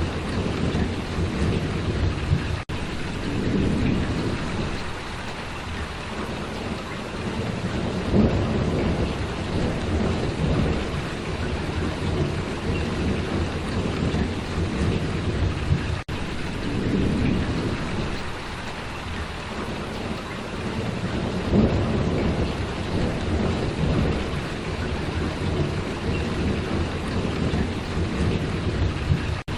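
Steady heavy rainfall with thunder rumbling low in repeated swells of a few seconds each. The sound cuts out for an instant twice.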